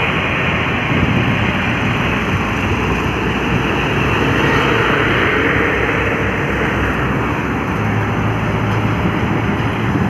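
Heavy trucks running on a highway: a steady, loud drone of diesel engines and road noise.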